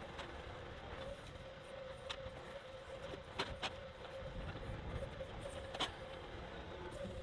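John Deere compact tractor's diesel engine running steadily, with a constant tone over it, while the backhoe works. Four sharp metal knocks come about two, three and a half (a close pair) and six seconds in.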